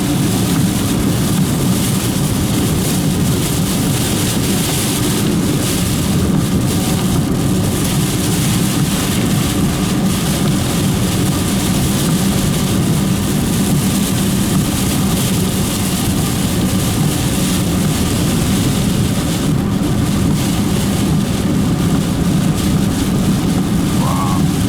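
Steady road and engine noise inside a moving car's cabin: a low hum with a hiss of tyres over it, unchanging throughout.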